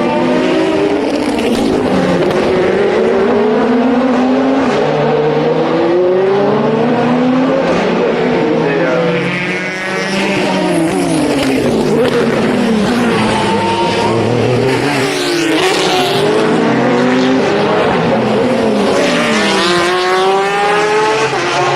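Endurance race cars passing one after another and overlapping, each engine note climbing, then dropping and climbing again as the cars accelerate and shift gear.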